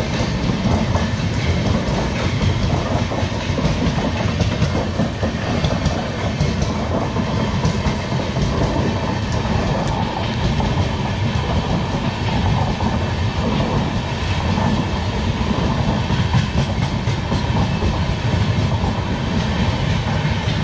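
Passenger train running on the rails: a steady rumble of wheels on track.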